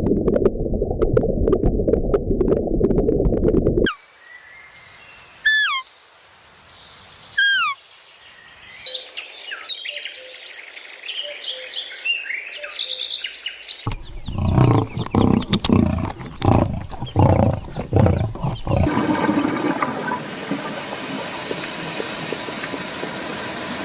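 A run of separate animal sound recordings: a loud low rumbling noise for about four seconds, then bird calls with quick falling chirps and chatter, then a series of short low calls, and near the end a steady hissing sound.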